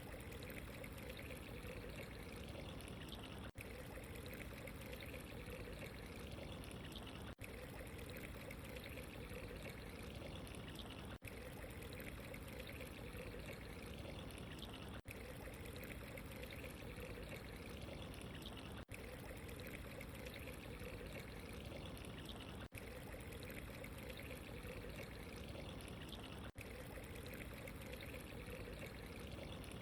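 Steady running water, faint and continuous, with a brief dip in level about every four seconds.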